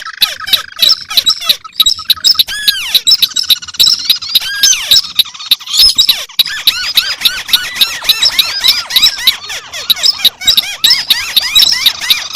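Recorded crake calls, several layered together, as used to lure white-browed crakes and related crakes: a dense, rapid run of short squeaky notes that rise and fall, with overlapping series out of step. A buzzy trill underneath fades out about two seconds in.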